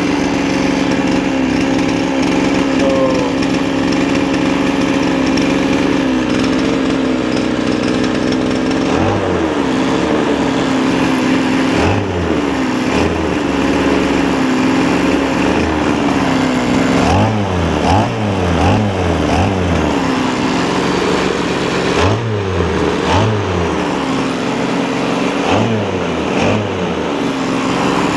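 Small 26.5cc two-stroke engine running at high speed. From about nine seconds in, its speed repeatedly drops and picks back up, several times over.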